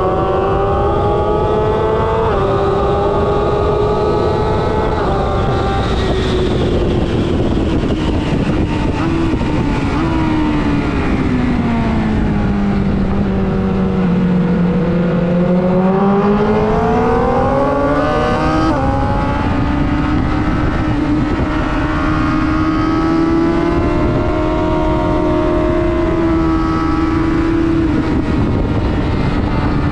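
Sport motorcycle engine running hard at speed over a constant rush of wind noise. About ten seconds in the engine note falls steadily as the bike slows for a corner, bottoms out, then climbs back up in steps through the gears.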